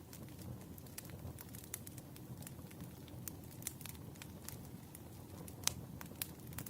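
Campfire crackling: a low steady rumble of burning with frequent irregular sharp pops and snaps, the loudest pop about two-thirds of the way through.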